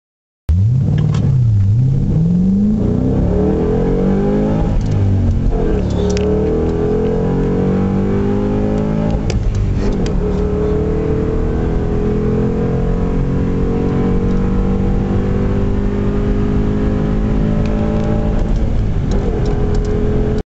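2007 Ford Mustang GT V8 with Flowmaster American Thunder exhaust accelerating hard. The revs climb twice and drop at quick upshifts in the first seven seconds or so, then rise slowly and steadily in a higher gear.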